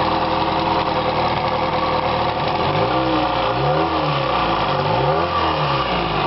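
1977 Mercury 20 hp two-stroke outboard motor running steadily, freshly started and not in gear. Through the middle its lower tones waver up and down in pitch.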